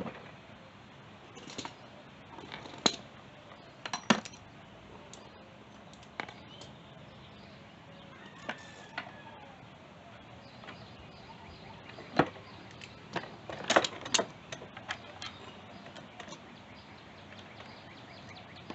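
Hand tools and small metal parts clinking and knocking at irregular intervals: a dozen or so sharp strikes, the loudest about three and four seconds in and again around twelve to fourteen seconds in.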